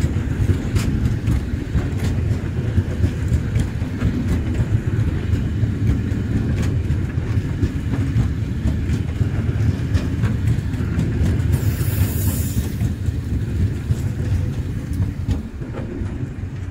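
Freight train of covered grain hopper wagons rolling past close by: a steady low rumble with irregular wheel clicks over the rail joints, and a brief hiss about twelve seconds in. The rumble begins to fade near the end as the last wagon goes by.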